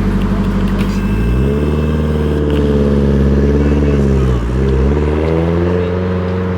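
Car engine running at a fast idle, then revved: its pitch climbs about a second in and holds high, drops briefly after about four seconds as the throttle is let off, and rises again.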